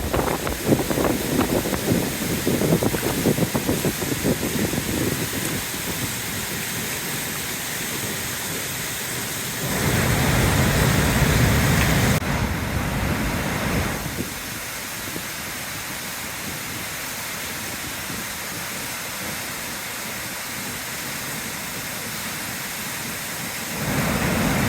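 Floodwater rushing in a swollen river, a steady noise of flowing water that shifts in level a few times, louder for a few seconds about ten seconds in.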